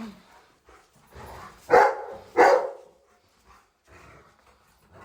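A dog barks twice, about a second and a half in and again half a second later.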